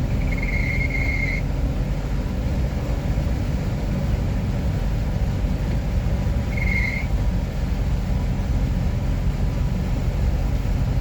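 Steady low rumble of road traffic. A high-pitched squeal lasts about a second near the start, and a shorter one comes around seven seconds in.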